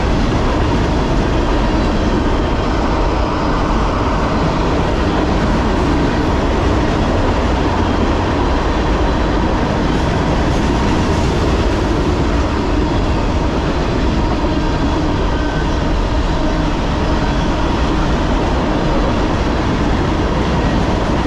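A train rolling past on the railroad tracks: a loud, steady rumble with a faint continuous tone on top.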